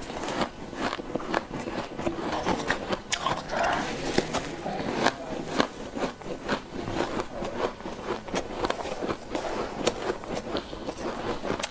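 Close-up crunching of ice or snow being bitten and chewed: a dense, irregular run of sharp cracks and crackles.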